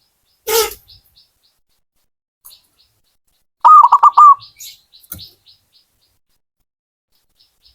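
Zebra dove (perkutut) singing: one loud phrase of four quick, rounded cooing notes a little under four seconds in. A brief noisy rustle comes half a second in, and faint high chirps follow the phrase.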